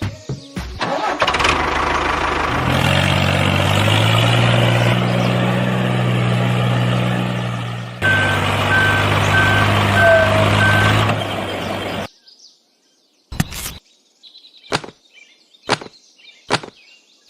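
A small engine, the DIY mini diesel, starts and runs at a steady pitch, then cuts off suddenly about twelve seconds in. After it, a few sharp separate clicks.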